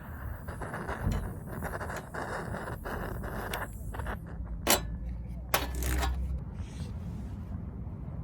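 Metal camp stove gear being handled, with scraping and a few sharp clicks about four and a half and five and a half seconds in, over a low rumble.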